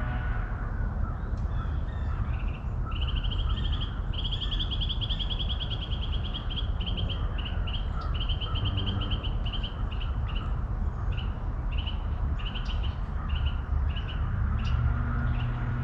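A songbird's high, rapid trill, starting a few seconds in as one long run and then breaking into short repeated bursts, over a steady low outdoor rumble.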